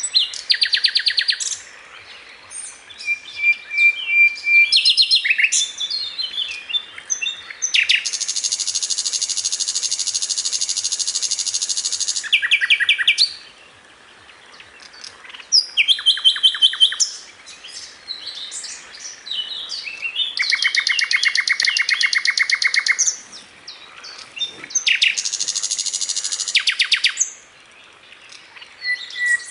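A sikatan londo flycatcher singing vigorously: a varied song of high chirps and very fast trills, several of them held for two to four seconds, with short pauses between phrases.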